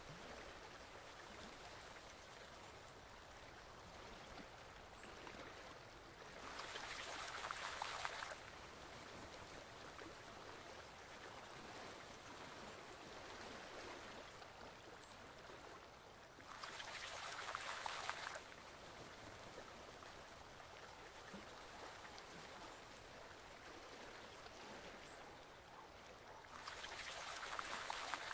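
Forest stream flowing steadily, with a louder rush of water three times, each lasting under two seconds, about every ten seconds.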